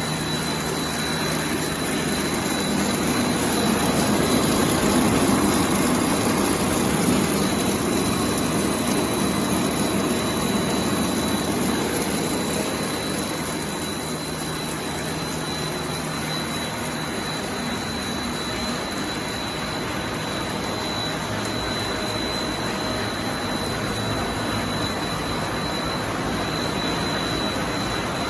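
Puffed corn snack production line machinery running steadily: a continuous mechanical din with a constant high whine and a low hum, swelling a little a few seconds in.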